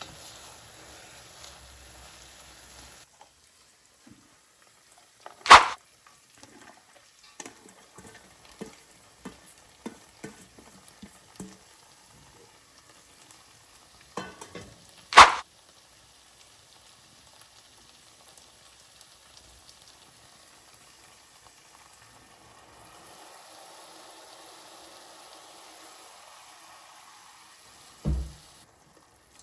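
Risotto cooking in a pan and being stirred: a faint sizzle and small spoon clicks against the pan, with two loud sharp knocks, one about five seconds in and one about fifteen seconds in, and a low thump near the end.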